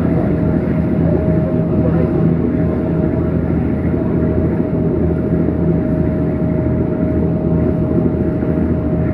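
A large engine running steadily: a constant low droning hum with a thin steady whine above it.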